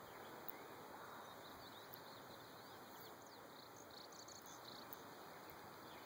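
Near silence outdoors, with faint distant birds chirping now and then.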